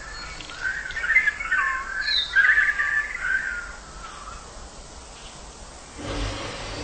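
Birds chirping, several wavering calls overlapping in the first half, then a short thud about six seconds in.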